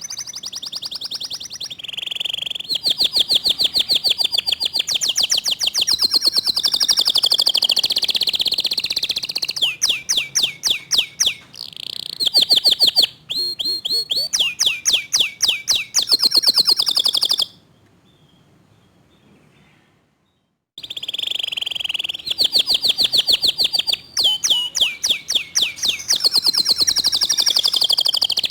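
Domestic canary singing a long song of rapid, tightly packed trills and fast repeated sweeping notes, high and clear. It stops for about three seconds midway, then starts up again with more quick trills.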